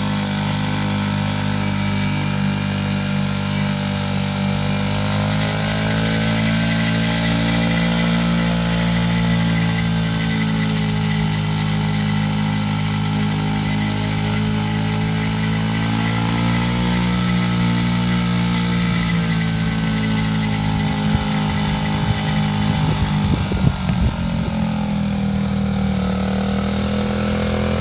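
Pit bike engine idling steadily, its pitch drifting slightly up and down, with a few uneven knocks a few seconds before the end.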